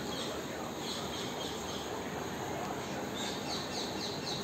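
Small birds chirping in two short runs of quick falling notes, about a second in and again after three seconds, over steady background noise.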